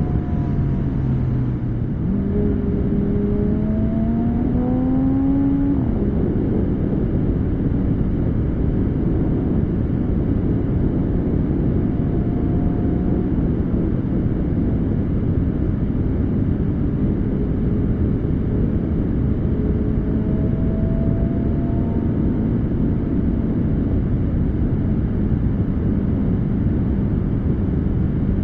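Porsche 718 Spyder's 4.0-litre flat-six through a Kline valved exhaust with OPF delete pipes, pulling with a rising note for a few seconds, then dropping off abruptly about six seconds in and settling into a lower steady drone under a constant rushing noise. The note starts to climb again at the very end.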